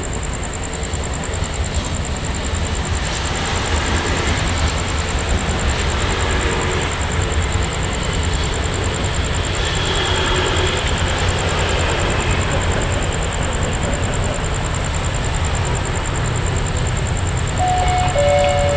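Diesel-electric locomotive and train at a railway station: a steady low rumble that grows gradually louder over the first few seconds.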